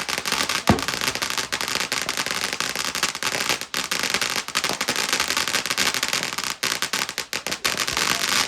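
Consumer fireworks going off: a dense, continuous crackling made of many rapid small pops, with one louder bang about a second in.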